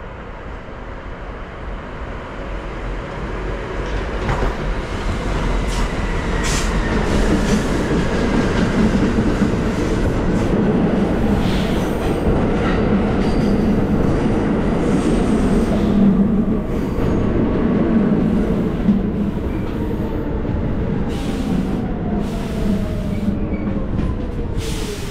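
A train running past on the rails, its rumble building over the first few seconds and then holding steady, with a whine that falls in pitch near the end.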